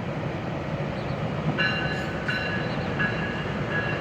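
GO Transit commuter train passing on the rails with a steady low rumble. From about a second and a half in, high metallic tones come and go in short pieces over it.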